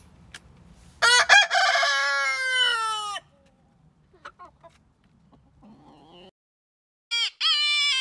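Rooster crowing once, a loud call of about two seconds that drops in pitch at the end, followed by a few faint hen clucks. Near the end comes another shorter call that stops abruptly.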